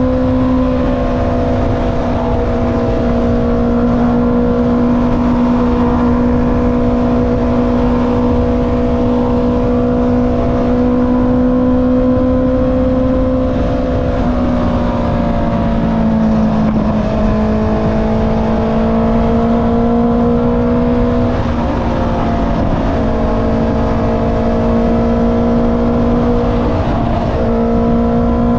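Honda CB650R's inline-four engine through an Akrapovic exhaust, riding at a steady engine speed. The engine note sags a little about halfway through, then dips briefly twice near the end as the throttle eases.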